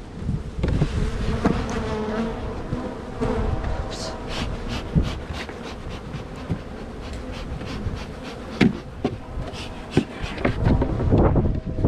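Honeybees buzzing close by in a steady, wavering hum, with scattered sharp knocks and clicks throughout, the loudest about two-thirds of the way in.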